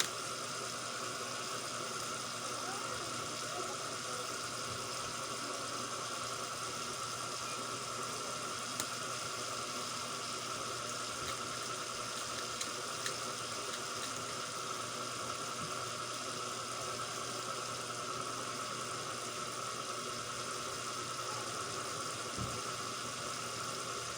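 Steady background hiss with a faint constant hum, broken only by a few faint isolated clicks.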